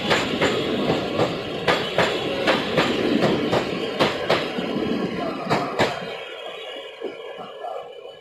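Passenger coaches of an express train running fast past a station platform, their wheels clattering in quick clicks over the rail joints. About six seconds in the rush drops away as the last coach passes and fades into the distance.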